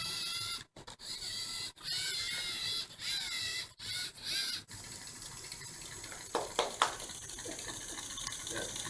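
LEGO EV3 Mindstorms robot's motors whining, stopping and starting several times with slight shifts in pitch, then a few sharp knocks about six to seven seconds in.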